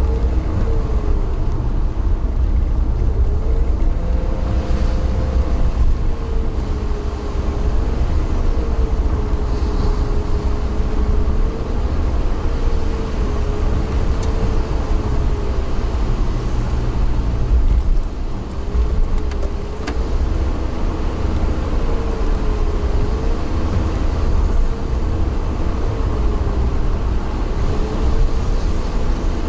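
A vehicle running steadily, heard on board: a heavy low rumble with a whining tone that wavers up and down in pitch.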